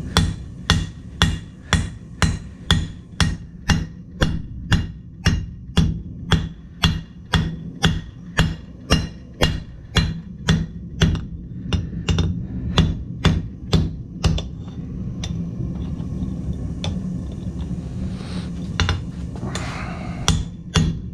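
Blacksmith's hammer striking hot steel on an anvil while drawing out a sword blade, a steady rhythm of about two blows a second. The blows stop about two-thirds of the way through, leaving only a steady low hum, and start again near the end.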